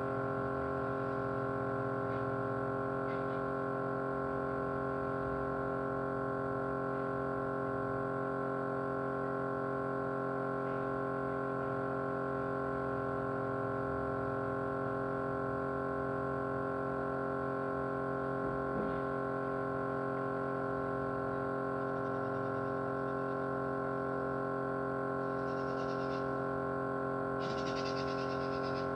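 Small motor running steadily, a constant vibrating hum made of several even, unchanging tones, with a couple of brief faint hisses near the end.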